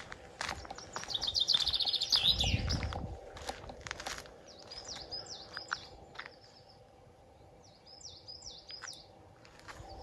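Small songbirds singing in woodland: repeated short high chirps and a fast, loud trill about two seconds in, with scattered sharp steps or clicks and a quieter spell near the end.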